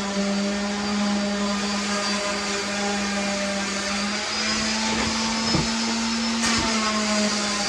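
A motor running steadily with a strong hum, its pitch stepping slightly up and down a couple of times, with a few light knocks about five to six and a half seconds in.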